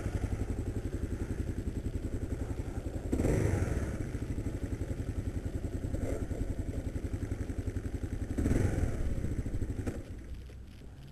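Kawasaki KLR motorcycle's single-cylinder engine idling with a fast even beat, rising briefly twice, then cutting out about ten seconds in. The stall fits the failed kickstand safety switch the rider suspects.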